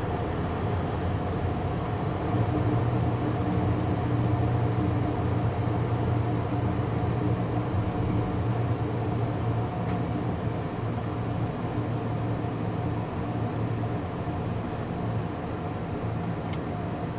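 Cockpit noise of a twin-turbofan Beechcraft Premier jet slowing in the landing pattern: steady airflow and engine hum with a few faint steady tones. About two seconds in a low rumble grows louder as the landing gear extends into the airstream, then eases off near the end.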